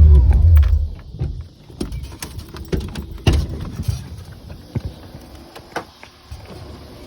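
Supercharged Mustang V8 rumbling loudly, then dying away about a second in, followed by scattered light clicks and knocks.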